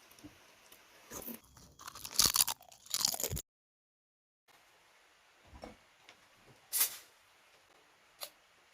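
Close-miked eating sounds: crunchy bites and chewing, loudest between about one and three seconds in, then a second of dead silence and a few sharp separate clicks.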